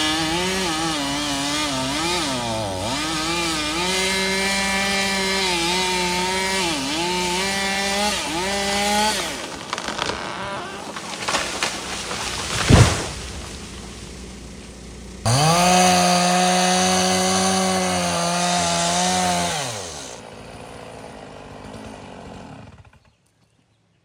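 Stihl MS 460 two-stroke chainsaw cutting, its engine pitch dipping again and again as the chain bites into the wood. Partway through the saw drops back and one sharp, heavy thump stands out as the loudest sound. The saw then revs high again, winds down, runs lower, and cuts off abruptly near the end.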